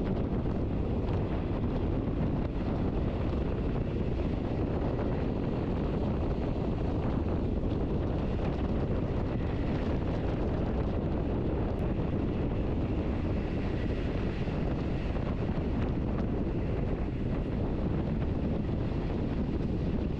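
Steady rumble and rush of a metre-gauge electric passenger train running at speed, heard from on board: wheels on the rails and air noise, even throughout.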